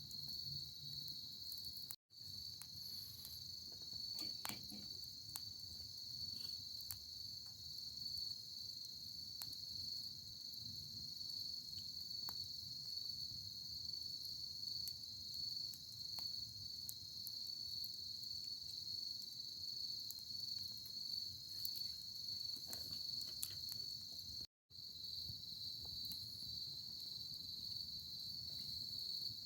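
Insects, crickets by their sound, trilling steadily at a high pitch. Faint scattered crackles and pops of a burning campfire are heard under it. The sound cuts out to silence briefly twice.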